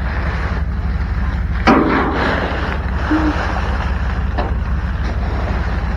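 Rummaging through trash in a dumpster: a sharp knock a little under two seconds in and a few lighter clunks, over a steady low hum.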